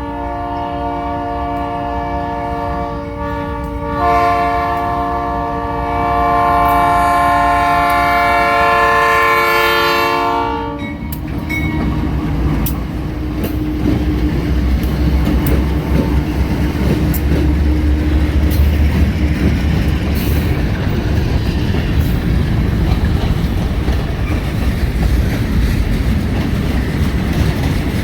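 Diesel locomotive air horn sounding a steady chord, which grows louder about four seconds in and cuts off about eleven seconds in. Then the GE B39-8E locomotives and their train rumble past, with engine drone and wheels clacking over the rail joints.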